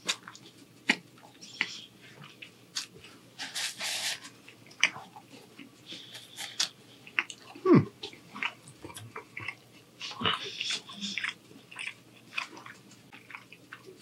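Close-miked chewing of crusty toasted bread: irregular crunchy bites and wet mouth sounds. About eight seconds in a short, low throat sound falls sharply in pitch, the loudest moment.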